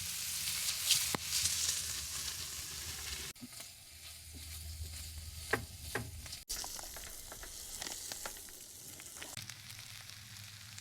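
Food sizzling as it fries in a pan, a steady hiss with a few sharp clicks of a utensil, breaking off abruptly twice where the footage is cut.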